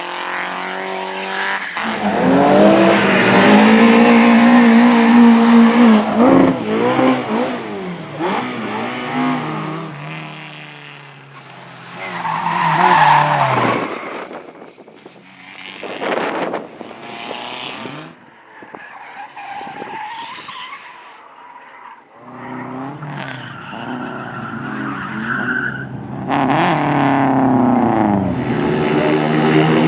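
Race cars driven hard past, engines revving up and down through gear changes, with tyres skidding. One long loud pass comes in the first few seconds, shorter ones follow in the middle, and another car closes in near the end.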